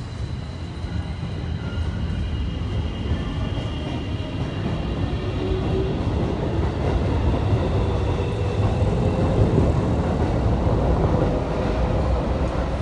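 A train rumbling across the elevated railway viaduct overhead, growing louder. The engine of a city bus moving past the stop mixes in.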